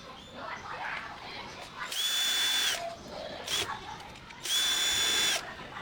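Cordless power driver spinning in two short runs of under a second each, with a brief blip between them, as screws are backed out during disassembly of an HP LaserJet P2015d. Each run is a steady high whine that winds up at the start and down at the end.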